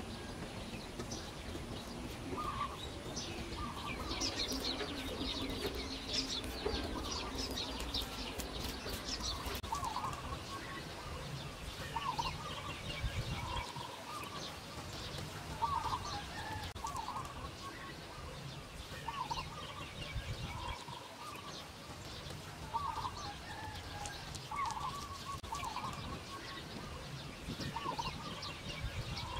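Birds calling outdoors: a short call repeated every second or two, with higher chirping mainly in the first third.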